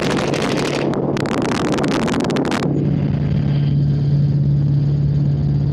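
Two long bursts of full-auto gunfire fired from a helicopter. The first burst ends about a second in, and the second runs from just after that to about two and a half seconds in. The helicopter's steady drone continues under the shots and goes on alone afterwards.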